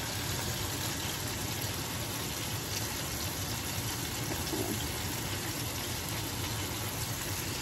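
Steady sizzling hiss of chicken frying in oil in a pan on the stovetop.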